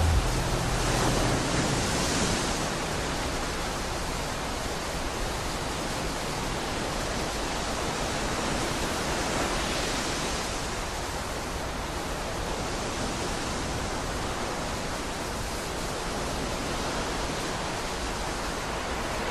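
A steady rushing noise with no tones or rhythm, like wind or surf, used as an ambient noise interlude in an experimental black metal track. The band's heavy playing cuts off abruptly at the start.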